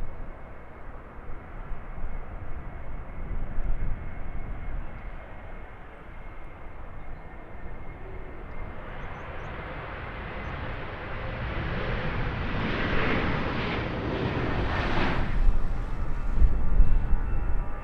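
Jet airliner's engines passing, the noise building from about halfway through and loudest near the end, with a deep rumble.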